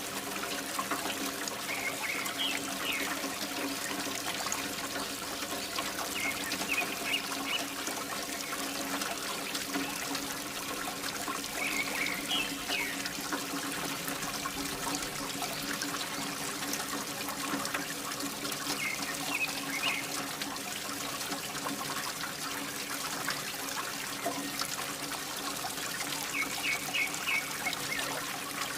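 Water pouring steadily from a mini water pump's outflow, over a steady motor hum. Short high chirps recur every few seconds.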